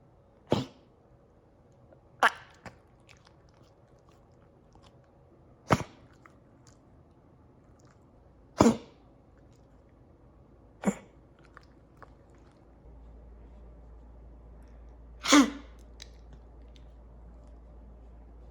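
Bichon Frise coughing from kennel cough: six short, sharp coughs a few seconds apart.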